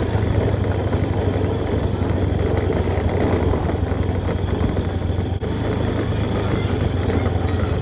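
Engine of a moving vehicle running steadily: a continuous low drone with travel noise, dipping briefly about five seconds in.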